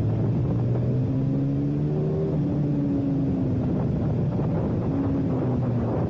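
Ducati motorcycle engine running under way, its note climbing for a second or so, dropping a little past two seconds in, then easing gradually lower.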